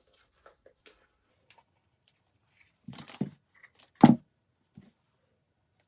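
Scattered small handling noises of ribbon and a paper tag being worked by hand: a few faint ticks, a brief cluster of rustles about three seconds in, and one sharper knock about four seconds in.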